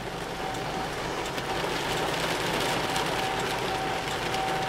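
Distant outdoor tornado warning siren sounding one steady tone that swells and fades in loudness, over a steady rushing background noise.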